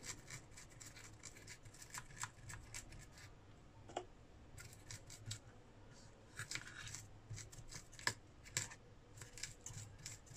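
Irregular small clicks and short scratchy scrapes, a few a second, from handwork at a workbench, over a steady low hum.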